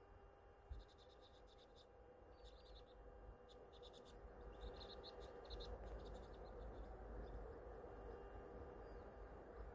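Near silence, with faint, high, quick chirps of small birds in four short runs over the first half or so, above a low steady hum.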